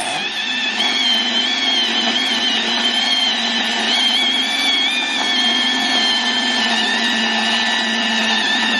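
Milwaukee M12 12-volt cordless band saw running steadily, its blade cutting metal stock, with a wavering high-pitched whine over the motor's hum.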